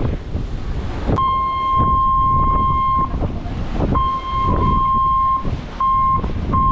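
Wind buffeting the microphone on a ferry's open deck, with a steady high-pitched beeping tone over it. The tone gives two long beeps of one to two seconds each, starting about a second in, then two short beeps near the end.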